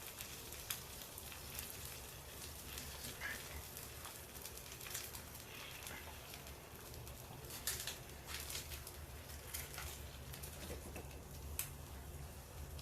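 A person eating close to the microphone: irregular wet mouth clicks and crackly chewing, with a faint steady low hum underneath.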